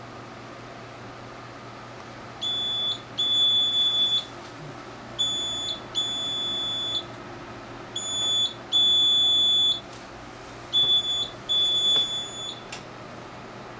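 Inkjet printer beeping its error alert, signalling that it is stuck in an error state: four pairs of high-pitched electronic beeps, each a short beep followed by a longer one, over a steady hum. A sharp click comes near the end.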